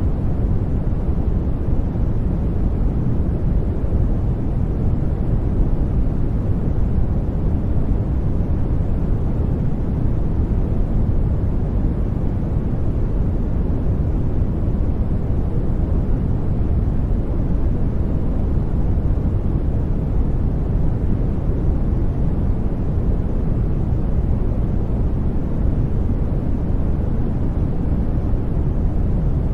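Brown noise: a steady, deep rushing hiss with most of its weight in the bass, unchanging throughout.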